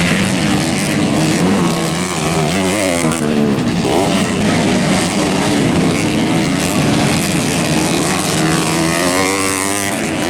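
Several dirt-bike engines racing together, their pitch repeatedly rising and falling as the riders work the throttle and shift gears.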